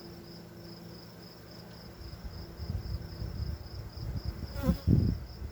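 Honey bees humming around an opened hive, with a high insect chirp pulsing evenly throughout. From about two seconds in, low knocks and rustling from frames being handled join in.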